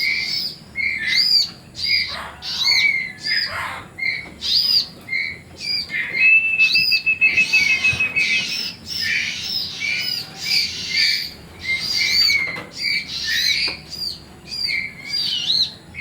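Baby ciblek (bar-winged prinia) chicks calling over and over with short, high, arching chirps, one to two a second, as begging for food; a fast, even trill comes in around the middle.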